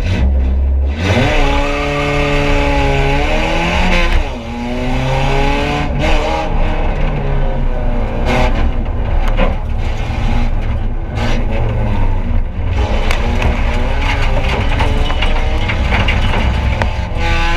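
Rally car engine heard from inside the stripped cabin under hard acceleration: the revs climb from about a second in, drop with a gear change near four seconds, then climb again and stay high. Road noise and scattered knocks and rattles from the gravel track run underneath.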